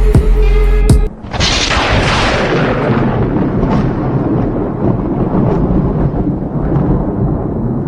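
Music with drum hits, then about a second in a sudden loud boom, a noisy rush that slowly fades away over the next several seconds.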